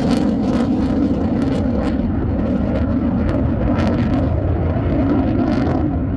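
Military fighter jet's engines on takeoff: a loud, steady low rumble with irregular crackling pops through it.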